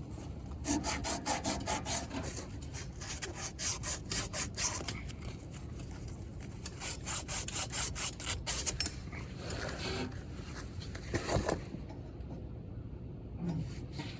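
Sandpaper scrubbed by hand in rapid back-and-forth strokes to clean a part for the air-conditioner reinstallation; the strokes thin out and stop about twelve seconds in.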